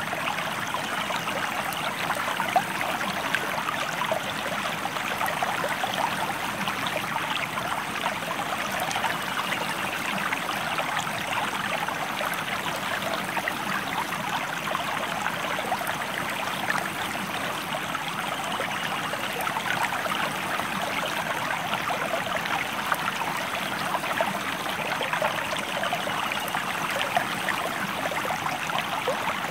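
Stream flowing: a steady rush of water with many small splashes and trickles running through it.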